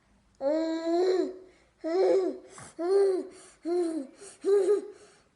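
A baby making strange vocal noises while being fed: five loud, pitched calls, each rising then falling in pitch, the first the longest, somewhere between laughing and babbling.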